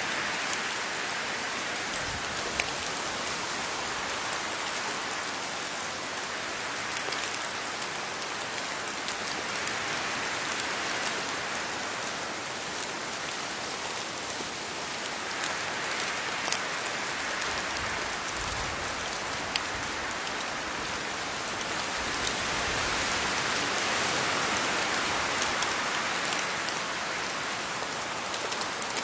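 Steady rain falling on leaves: an even hiss that swells and eases every few seconds, with scattered sharper drop ticks.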